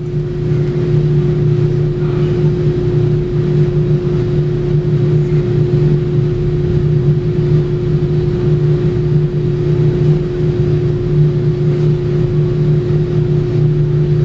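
Car engine idling steadily with an even drone, run after a fresh oil change before the oil level is checked again.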